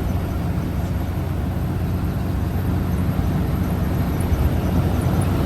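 A 1976 Dodge W600 Power Wagon tow truck driving along, its 5.9-litre Cummins inline-six turbo-diesel running steadily under way, heard from inside the cab as an even low drone.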